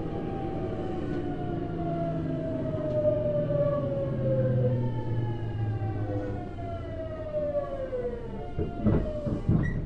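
Hitachi GTO-VVVF traction inverter and motors of a Tokyu Series 9000 electric train heard from inside a motor car: a siren-like whine of several tones falling steadily in pitch as the train slows under braking. A few knocks sound about nine seconds in.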